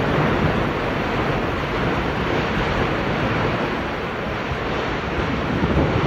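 Landslide on a mountain slope: a steady rushing roar of sliding earth and debris, with a deep rumble underneath.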